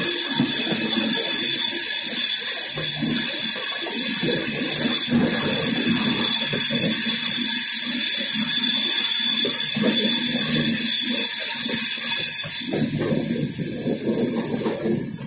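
A moving Indian Railways passenger coach heard from its open door: a steady loud rush of wind and hiss over the rumble of the wheels on the track, easing and turning uneven about 13 seconds in.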